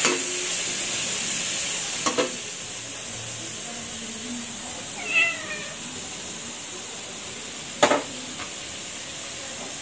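Pork and bitter gourd sizzling steadily in a hot wok, with a few sharp metal clacks of spatula and utensils, the loudest near the end. A short pitched call with a falling bend sounds about five seconds in.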